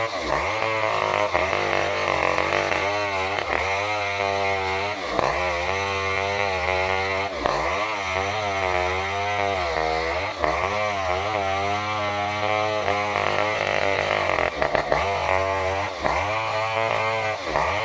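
Stihl 070, a big two-stroke chainsaw, running under load as it rips along a durian log; its engine note keeps dipping and climbing again every second or two as the chain bites and frees in the wood.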